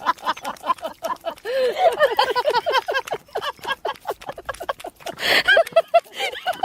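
A rapid run of short animal calls, several a second, each rising and falling in pitch, with a brief rush of noise about five seconds in.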